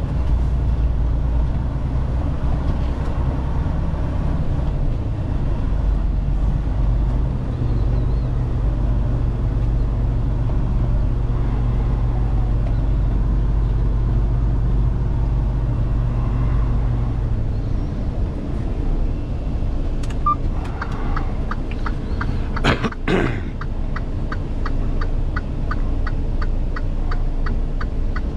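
Semi truck's diesel engine running low and steady as heard from the cab, its note rising a few seconds in and settling back down later. Near the end there is a brief loud whoosh, and then an even ticking of about three ticks a second.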